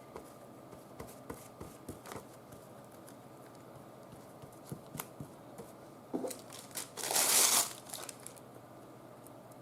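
Tissue paper crinkling as it is handled, with scattered light clicks and one louder crinkle lasting about half a second about seven seconds in.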